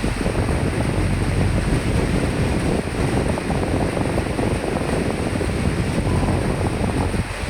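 A gust of wind buffeting over steady rain, a rough low rumble that comes in suddenly and cuts off suddenly after about seven seconds, leaving the rain hiss.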